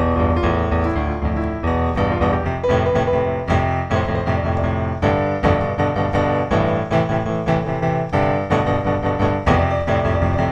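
Background piano music, with notes struck every fraction of a second over held chords.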